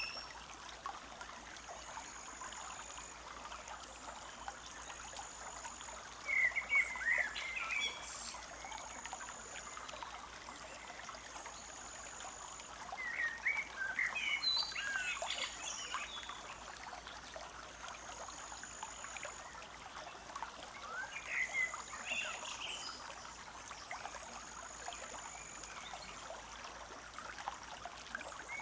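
Forest stream trickling steadily, with wild birds singing short bursts of chirps three times, about six, thirteen and twenty-one seconds in. A thin, high whistle-like note repeats every two to three seconds throughout.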